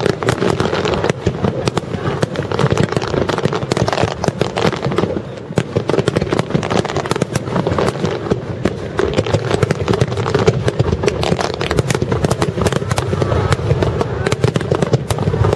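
Aerial fireworks shells bursting in a rapid, continuous barrage, many bangs overlapping with crackle and no pause.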